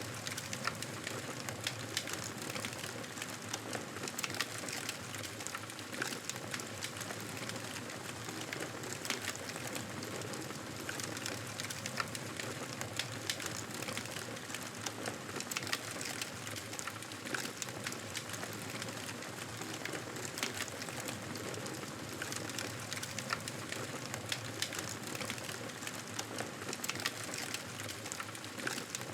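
Wood fire crackling: frequent small sharp pops and snaps over a steady hiss, with no pause.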